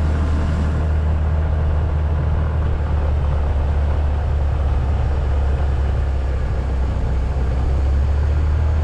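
Small moped engine running steadily while riding uphill, a constant low drone with no change in pace.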